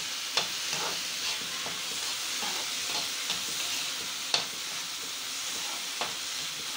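Chopped onions and tomatoes sizzling in hot oil in a kadai, stirred with a spoon that now and then scrapes and clicks against the pan, one click a little past the middle louder than the rest.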